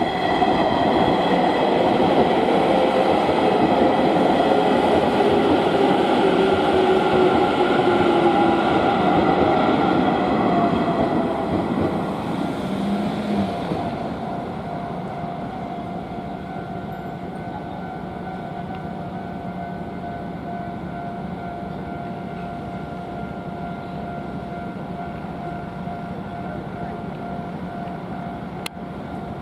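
Electric train passing over a Japanese level crossing, loud for the first dozen seconds with a falling motor whine, then fading away. The crossing's electronic warning bell rings steadily throughout and keeps going at full volume after the train has passed.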